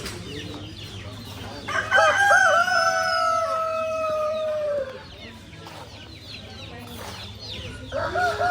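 A rooster crowing: one long crow with a choppy start and a drawn-out, slightly falling last note beginning about two seconds in, and a second crow starting near the end, over many other chickens calling.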